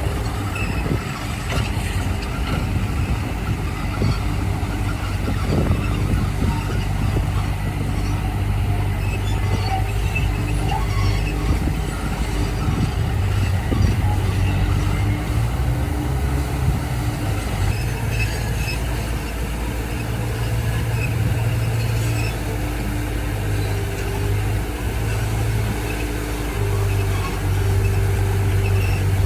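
Heavy diesel earthmoving machinery running steadily, the engine note shifting up and down a few times as it works under changing load, with faint scattered high squeaks.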